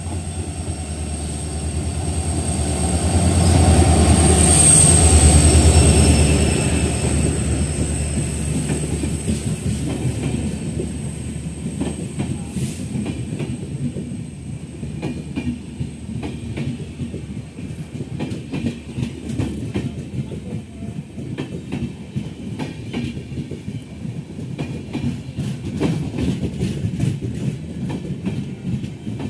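WDP4D diesel locomotive running in alongside the platform and passing close by, its low engine rumble loudest a few seconds in. Then the passenger coaches roll past with a steady clickety-clack of wheels over the rail joints.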